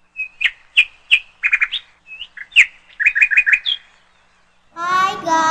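Bird chirping: short, sharp tweets, some single and some in quick runs of three or four. A held pitched tone with many overtones starts near the end.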